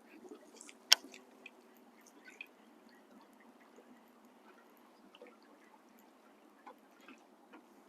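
A single sharp click about a second in, then scattered faint ticks and drip-like taps over a quiet background hiss.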